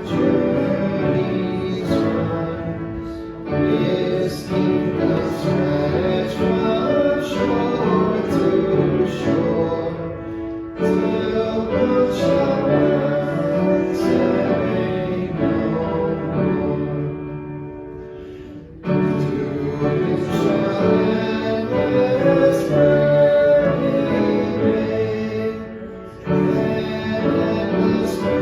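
A hymn sung with instrumental accompaniment, in phrases of about seven seconds with a short break between each.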